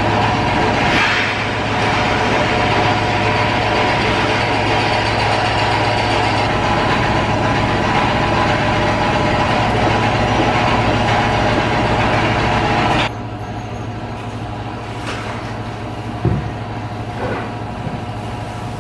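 A machine running steadily with a loud hum for about 13 seconds, then cutting off suddenly and leaving a quieter steady hum underneath, with a knock or two.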